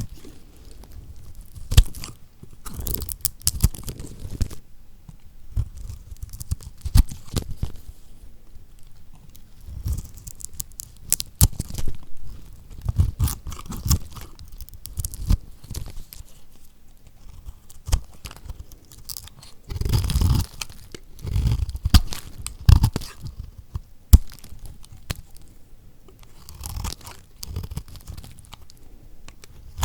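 Knife cutting through lacquered soap: a run of irregular crunches with sharp crackling snaps as the blade breaks the hard coated surface, busiest about two-thirds of the way through.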